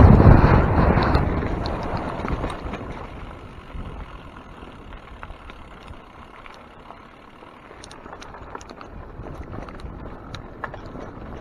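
Mountain bike ride heard from the rider's camera: a loud rush of wind on the microphone that fades away over the first few seconds, then quieter rolling with scattered sharp clicks and rattles.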